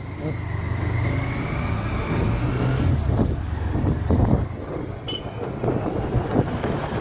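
Honda Hornet 160R motorcycle under way, its engine note rising for the first three seconds or so, then giving way to wind rushing over the microphone. A short sharp click about five seconds in.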